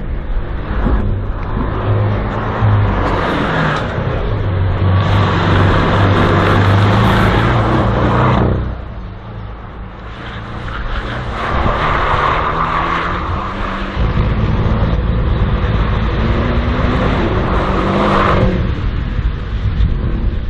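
Race car engine revving hard and falling back as the car is driven through an autoslalom course. It is loud for the first eight seconds or so, drops off briefly, then builds again and stays loud until near the end.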